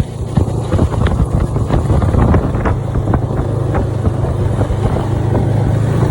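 Snowmobile engine running steadily under way, with wind buffeting the microphone and scattered knocks.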